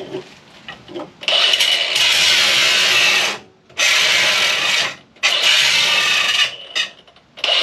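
Cordless angle grinder running in bursts of one to two seconds with short stops between, likely grinding at the microwave's security screws: a loud hissing grind with a steady high whine.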